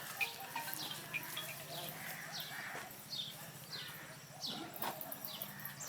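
Birds calling with short, quick falling chirps, several a second, over a steady low engine hum.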